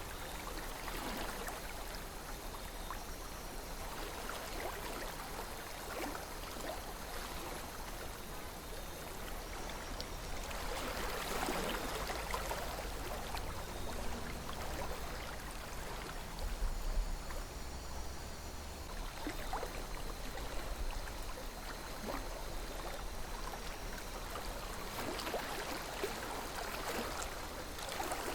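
River water flowing and babbling steadily, with small gurgles and trickles, swelling a little louder now and then, over a low rumble.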